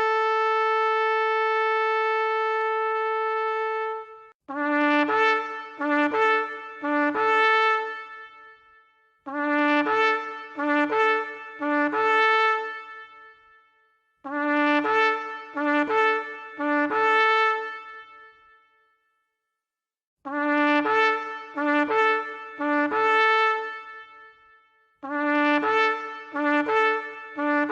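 Shofar (ram's horn) blowing: one long steady blast that ends about four seconds in, then groups of short blasts alternating between a lower and a higher note, five groups with brief pauses between them.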